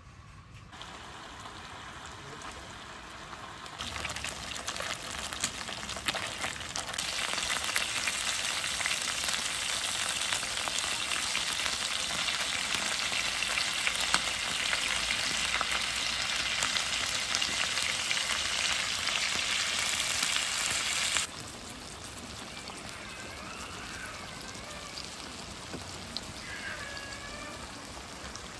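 Pork slices and broccoli frying in oil in a grill pan: a dense crackling sizzle that grows louder over the first several seconds. About 21 seconds in it drops suddenly to a quieter sizzle.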